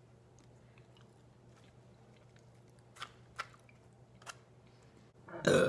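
Quiet chewing of a mouthful of noodles with a few soft mouth clicks, then a loud burp near the end.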